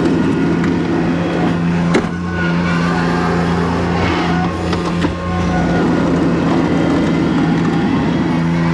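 Skid steer engine running steadily, with two sharp knocks about two seconds and five seconds in.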